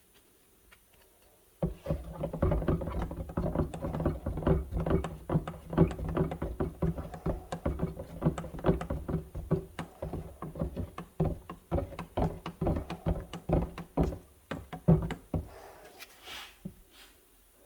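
Bed liner coating being mixed by hand in its container: a rapid, irregular run of knocks and clatters that starts suddenly about two seconds in and thins out near the end.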